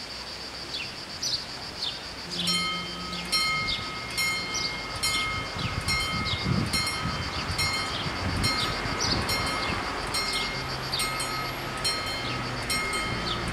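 Level-crossing warning bells start ringing about two and a half seconds in, a steady series of repeated metallic dings as the crossing activates for an approaching train.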